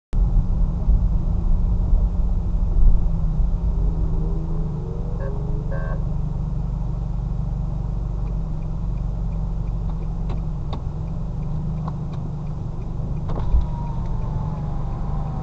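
Steady low rumble of a car driving, engine and road noise as picked up by a dash cam. About 13.5 s in there is a single thump, followed by a faint falling whine.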